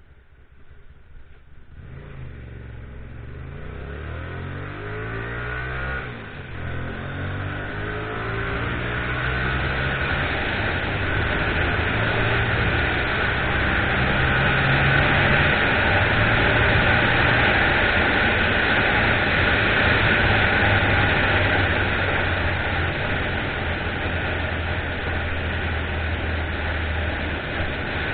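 Motorcycle pulling away: the engine comes in about two seconds in and revs up with a few gear changes, then runs steadily at speed under wind noise that grows louder and eases off a little near the end.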